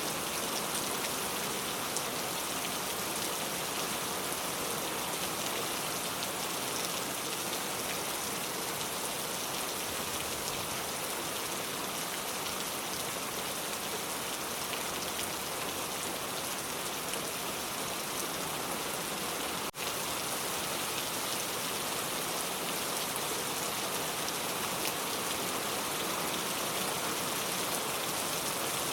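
Steady rain falling, a dense even patter of drops on surfaces, with a momentary dropout about two-thirds of the way through.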